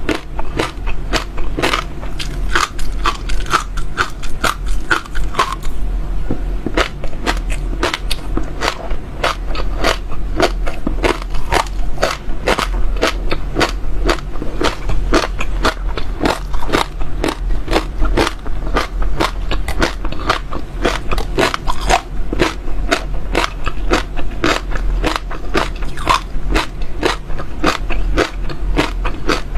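Close-up chewing and biting of crunchy seeds: crisp cracks and crackles in a quick, uneven run, several a second without pause.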